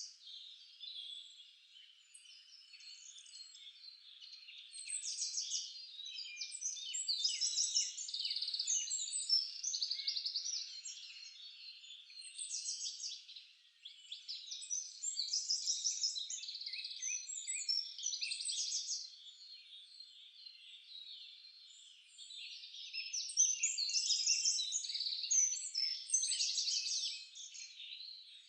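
Several songbirds singing at once: fast, high-pitched chirps and trills overlapping in bouts that swell and fade every few seconds.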